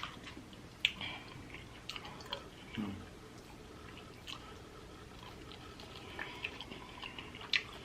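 A person chewing pizza, with scattered wet mouth clicks and smacks at irregular intervals.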